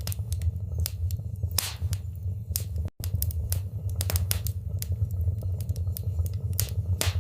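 Wood fire crackling in a fireplace: irregular sharp pops and snaps over a steady low rumble of the flames. The sound cuts out for an instant about three seconds in.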